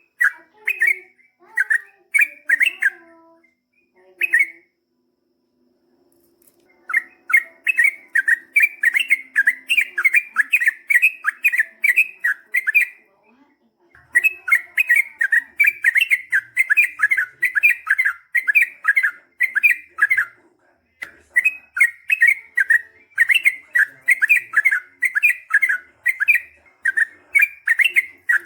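Yellow-vented bulbul (trucukan) singing: a few scattered notes, a short pause, then long runs of rapid repeated notes, about three or four a second, broken by brief pauses.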